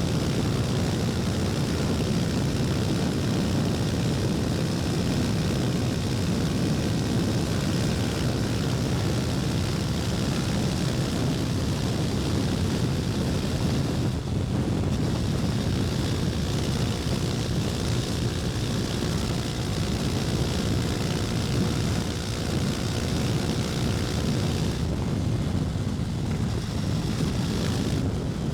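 KTM 250 Duke's single-cylinder engine running steadily while the motorcycle is ridden, with a continuous rush of wind noise over it.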